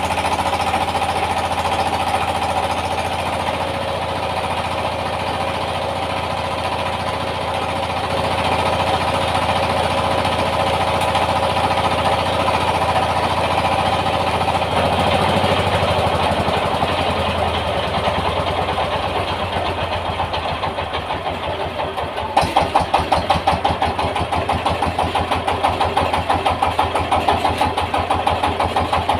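Rice milling machine running, driven by a Yanmar TS 230 single-cylinder diesel engine, a steady mechanical din. About two-thirds of the way through it turns into a louder, even beat of several pulses a second, with the engine's own chugging to the fore.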